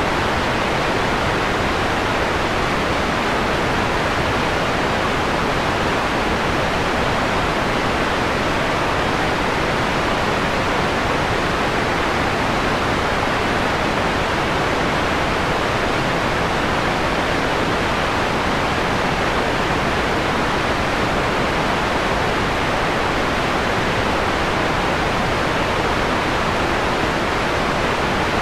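Steady synthetic noise, filtered so that the high end rolls off above a few kilohertz: white noise dimmed to a mellower, pink-noise-like hiss, with no change in level.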